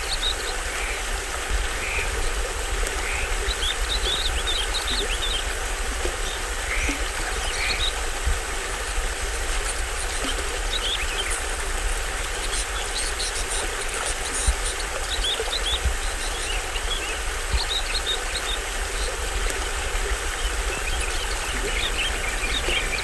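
Small stream-let waterfall running steadily, with a low rumble underneath, while tropical forest birds chirp in short scattered calls throughout.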